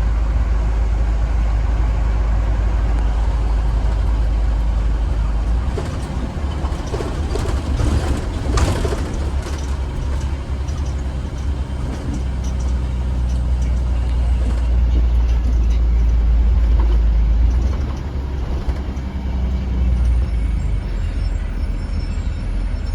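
2015 Blue Bird Vision school bus running, a steady deep engine and road rumble. A brief burst of hiss and rattling comes about eight seconds in.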